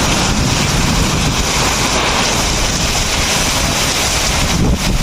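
Heavy rain pouring down steadily while strong wind buffets the microphone with a low, unsteady rumble.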